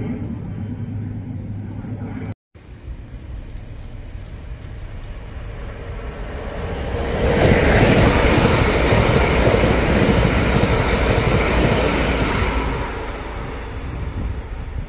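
A twin-turboprop airliner's steady propeller drone for the first couple of seconds, cut off abruptly. Then an electric multiple unit passes close by on the line, its rush and wheel-on-rail noise swelling from about six seconds in, loudest for about five seconds, then fading.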